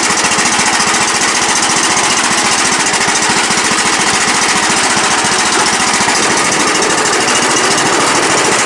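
Troy-Bilt Pony riding mower's single-cylinder Briggs & Stratton engine running steadily just after starting, starting up real nice after its repairs.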